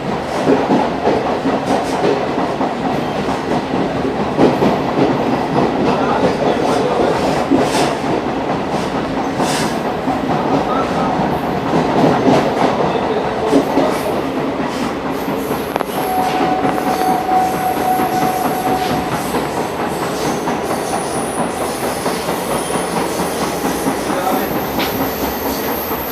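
Passenger train running at speed, with a continuous rumble and the wheels clacking over rail joints. A steady tone sounds for a few seconds past the middle.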